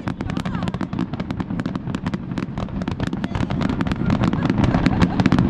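Dense, rapid crackling and popping, many pops a second, over a steady low rumble that grows louder near the end.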